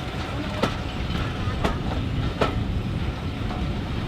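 Train running along the track: a steady rumble with three sharp clicks as the wheels pass over rail joints.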